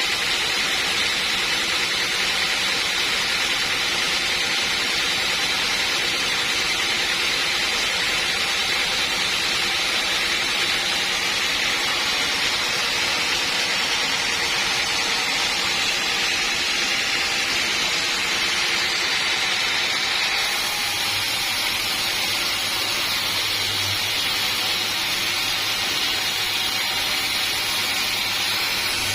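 Sawmill machinery running: a loud, steady noise. A low hum and a higher hiss join in about twenty seconds in.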